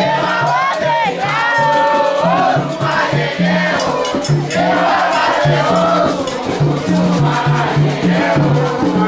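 Candomblé ritual song: a group of voices singing a chant over a steady rhythm of hand drums and a rattle.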